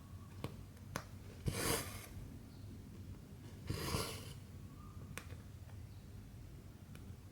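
Cotton embroidery thread drawn through 14-count cross-stitch fabric in two short swishing pulls about two seconds apart, with a few faint needle clicks between them.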